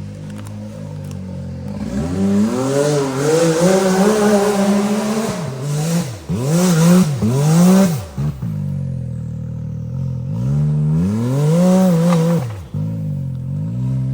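Side-by-side's engine idling, then revved hard in repeated bursts that rise and fall in pitch, with a short lull in the middle.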